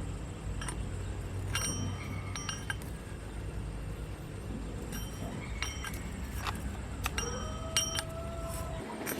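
Small metal parts or tools clinking against metal, about eight light strikes that each ring briefly, over a steady low hum that stops just before the end.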